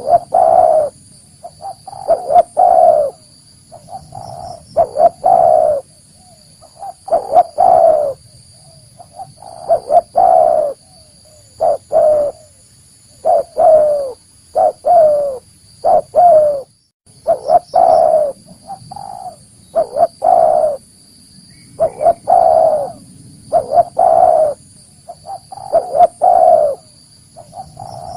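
Spotted dove (tekukur) cooing over and over, loud phrases of a few coos each about every two seconds. This is the bird's natural call, the kind played to lure wild doves in.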